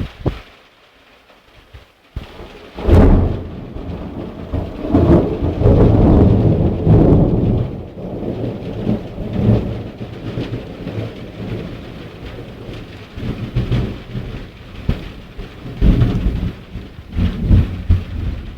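Thunder during a heavy thunderstorm: a sharp crack at the very start, then a long, loud rumble that rolls in about three seconds in and peaks a few seconds later, with further rolls of thunder to the end. Rain is falling underneath.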